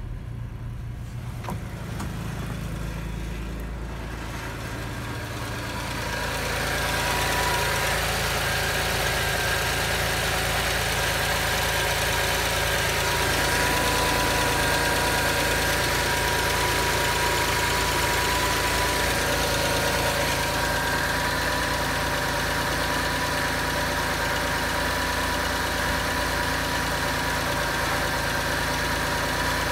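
Audi 2.7-litre twin-turbo V6 (AJK) idling steadily. It sounds muffled and low at first, then louder with more high-pitched mechanical noise from about six seconds in, once heard at the open engine bay.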